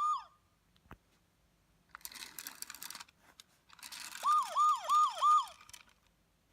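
VTech Toot Toot Drivers toy police car playing its electronic siren effect through its small speaker: four quick falling whoops over a hiss, between about four and five and a half seconds in. Before that there is a single click about a second in and a short burst of hissy noise about two seconds in.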